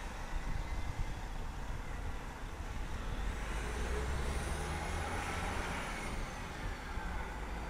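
Train rumbling past, a steady low rumble that grows a little louder about three seconds in, with faint high thin tones above it in the middle.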